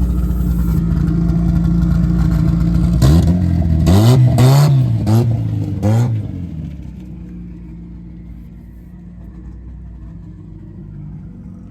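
A car engine running steadily, then launching hard about three seconds in and accelerating through several quick upshifts, its pitch climbing and dropping with each gear change. It then fades away as the car pulls off down the strip.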